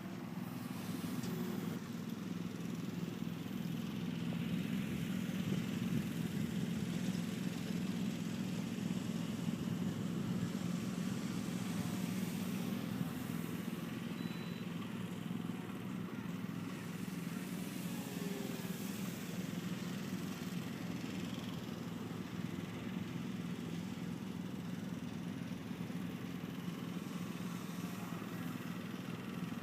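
Steady low rumble with the faint drone of a small electric RC warbird's motor and propeller overhead, shifting a little in pitch now and then as the plane moves.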